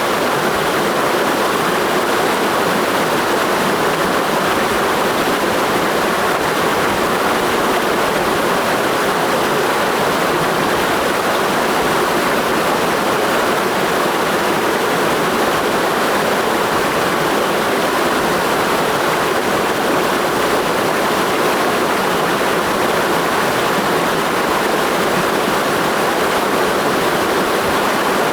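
Clear mountain stream rushing steadily, an even, unbroken hiss of flowing water.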